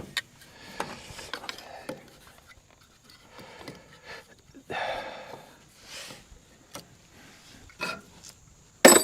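Hands handling wiring and parts: scattered rubbing and scraping noises, with a sharp clack near the end.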